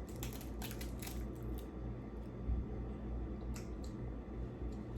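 Small sharp clicks and crackles from handling and tasting food at a table: a quick run in the first second and a half, then a few single clicks, over a steady low hum.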